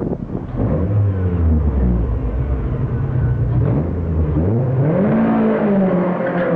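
Lotus sports car engine running loud. About two thirds of the way in, the pitch dips, then revs sharply up and holds high.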